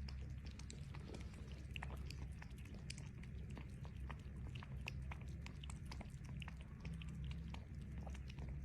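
An animal chewing food: many small, irregular crunching clicks.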